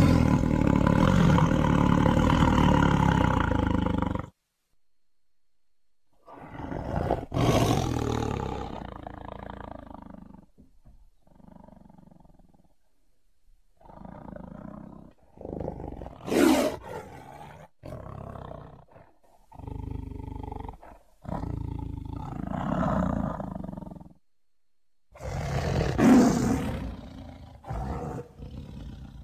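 Tiger roaring in a string of separate recordings. A long roar cuts off suddenly about four seconds in. After a short silence come more roars and shorter, quieter calls, then another brief gap and a loud roar near the end.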